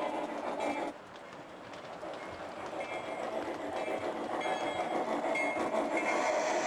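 Model train running on the layout with train running sounds. The sound drops about a second in, then grows steadily louder.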